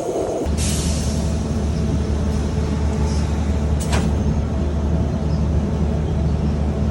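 Train running with a steady low rumble and hum. A short hiss comes about half a second in, and a sharp click around four seconds in.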